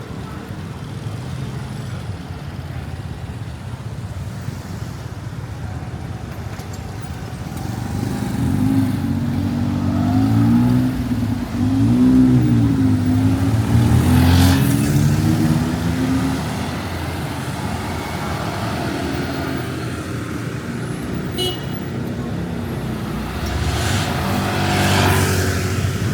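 Street traffic: a motor vehicle's engine running close by for several seconds near the middle, its pitch rising and falling, over a steady background of passing traffic. Other vehicles go by near the end.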